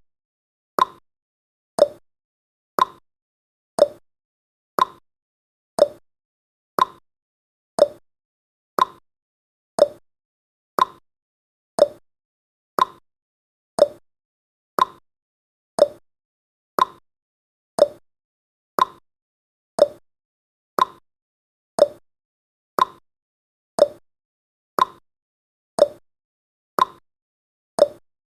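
A countdown timer's ticking sound effect: a sharp, clock-like tick once every second, steady and even.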